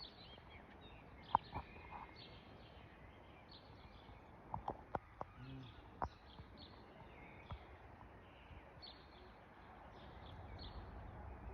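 Quiet outdoor background with faint, repeated bird chirps and a few short, sharp clicks.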